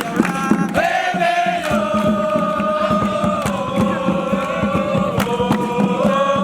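Voices chanting a long drawn-out sung note that steps down in pitch twice and rises again near the end, over rhythmic percussive beats.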